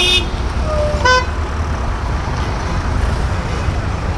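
Road traffic: a steady low engine rumble with a short vehicle horn toot about a second in, just after a quick series of high beeps ends at the start.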